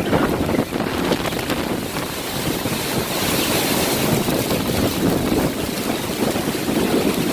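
Hurricane-force wind gusting and buffeting the microphone with a steady low rumble. A stronger hissing gust comes about three to four seconds in.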